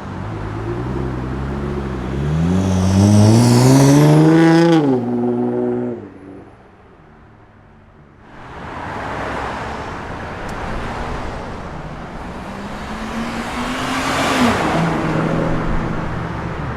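Nissan GT-R twin-turbo V6 exhaust as cars accelerate away: the engine note climbs in pitch for a couple of seconds and then drops off. This happens twice, with a quieter moment in between.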